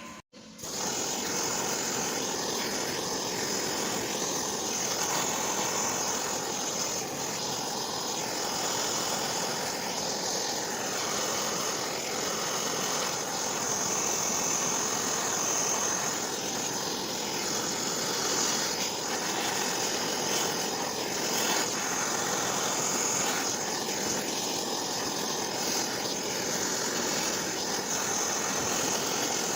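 Stick welding on cast iron with a nickel electrode: the arc gives a steady, even crackling hiss that holds at one level.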